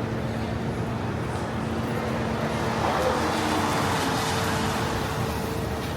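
City street traffic: a steady rumble and hum of vehicles, with one passing and growing louder about three seconds in before fading.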